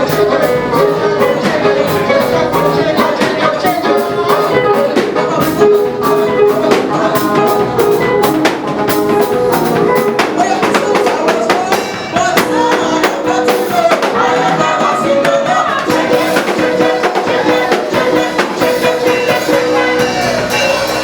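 Live praise band playing an upbeat gospel groove with drum kit and guitar, with singing over it.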